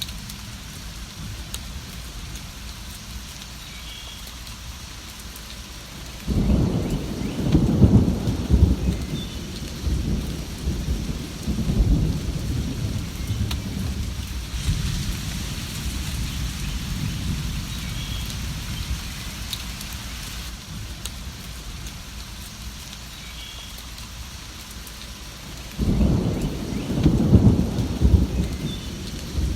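Steady rain with two rolls of thunder: a deep rumble that breaks in suddenly about six seconds in and fades over several seconds, and another that starts near the end.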